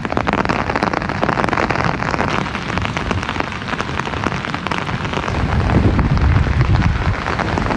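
Steady rain pattering, a dense run of small drop hits, with wind rumbling on the microphone, strongest about six seconds in.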